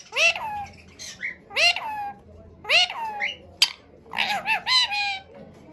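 Ringneck parrot calling: a series of short, strident calls that each bend up then down in pitch, ending in a quick run of three.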